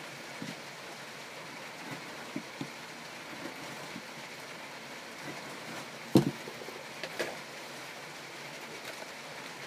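Handling noise from working on a knife sheath: a few light knocks and taps, with one sharper knock about six seconds in and a couple more just after, over a steady background hiss.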